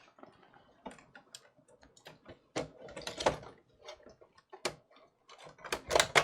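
Irregular clicks and knocks of small hand tools and plastic console parts being handled during a PlayStation 5 teardown. The loudest clusters of clatter come about three seconds in and again near the end.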